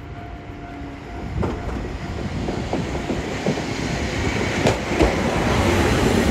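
Electric train running on rails, its noise growing steadily louder as it approaches, with irregular clicks from the wheels over the track.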